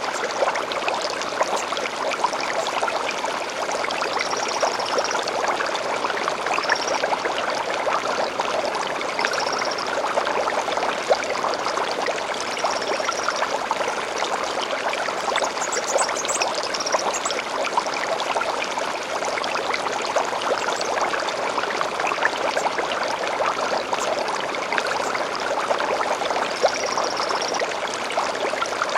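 A small stream babbling steadily, with a bird giving short, high chirps every few seconds over it.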